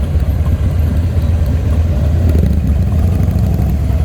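Motorcycle engines running at low parade speed as a group of bikes rolls by, a steady low rumble.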